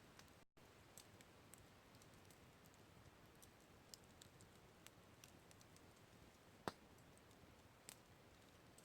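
Campfire burning wood, crackling with sparse sharp pops and snaps over a faint hiss; the loudest pop comes about two-thirds of the way in.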